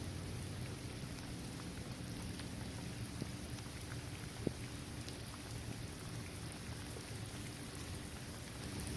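Steady rain falling on a hard basketball court and on trees and grass, with scattered individual drops ticking through it and one sharper drop about halfway through.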